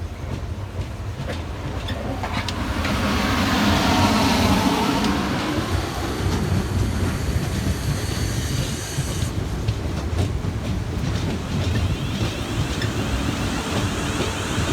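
Train running on the rails, its wheels clattering; the sound builds to its loudest about four seconds in, then runs on steadily.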